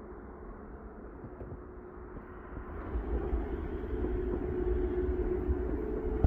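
A passing vehicle's engine drone with a low rumble, growing louder about halfway through.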